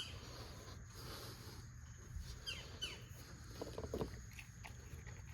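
Faint squelching and handling sounds of wheel-bearing grease being worked by hand into the hub of a new brake rotor, with a few small squeaks and light clicks.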